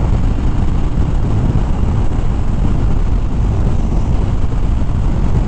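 Steady low rush of riding wind on the microphone, with a Harley-Davidson Fat Bob's V-twin engine running at cruising speed underneath.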